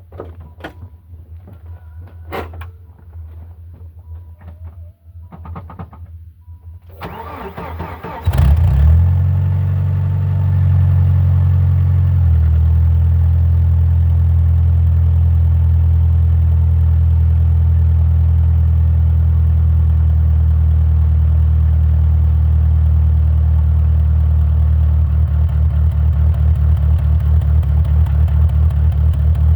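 Plymouth Acclaim's 2.5-litre four-cylinder engine heard at the tailpipe on a cold start: after a few seconds of faint clicks and low rumble, the starter cranks briefly and the engine catches about eight seconds in. It runs at a raised cold idle that drops a step a few seconds later, then holds steady, with the exhaust note taking on a regular pulse near the end.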